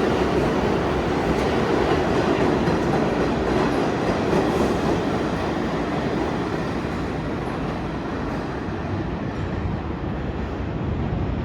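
New York City subway train running on the rails, a steady loud rumble of wheels and motors that eases off a little near the end.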